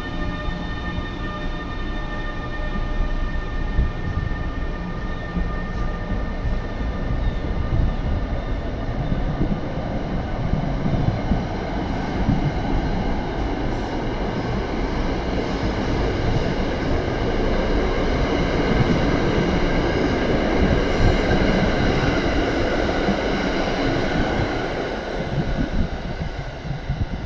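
NJ Transit push-pull train pulling out of the station past the platform. A steady whine from the locomotive is heard at first and fades. Then the rumble of the coaches' wheels on the rails builds, peaks and eases as the cars roll by and draw away.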